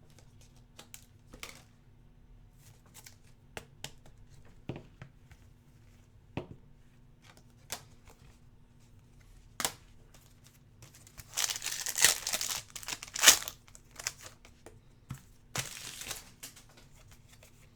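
Plastic wrapper of a 2019-20 Hoops basketball trading card pack being torn open and crinkled. Faint clicks of cards being handled come first. About eleven seconds in there are a couple of seconds of tearing and crinkling, then a shorter burst near the end.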